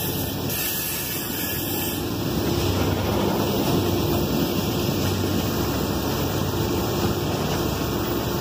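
Freight cars of a Norfolk Southern train rolling past at close range: a steady rumble of steel wheels on the rails that grows louder about two seconds in.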